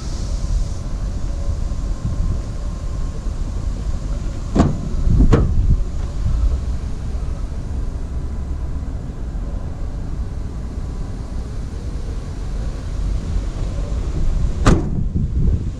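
Steady low rumble of wind on the microphone, broken by a few sharp knocks: two about four and five seconds in, and one near the end.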